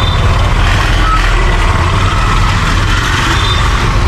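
Busy street traffic of scooters, tuk-tuks and other vehicles: engines running with a steady low rumble, and a few short high beeps.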